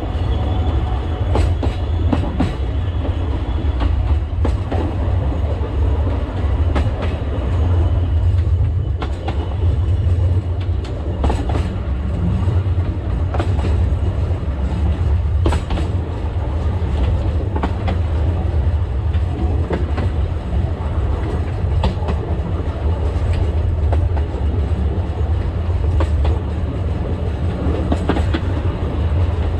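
Narrow-gauge forest railway train running, heard from the driver's cab: a steady low rumble with irregular sharp clicks of the wheels over rail joints.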